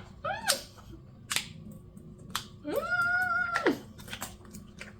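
A woman's short rising-and-falling vocal squeak, a few sharp clicks, then a high-pitched whine held for about a second.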